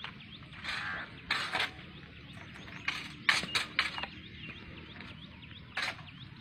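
Small birds chirping, with a few short bursts of noise in between.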